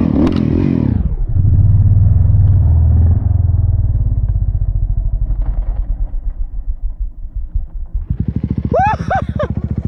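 Dirt bike engine running close by, heavier for a couple of seconds after the start and then easing off. About eight seconds in it settles into a low, evenly pulsing putter.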